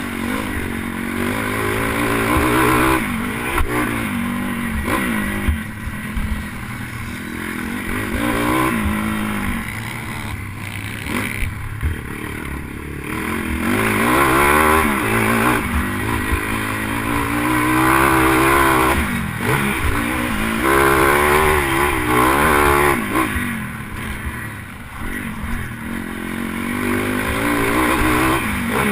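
Pit bike engine revving up and falling back again and again as the throttle opens and closes, with rising and falling pitch sweeps every couple of seconds, heard through a helmet-mounted camera.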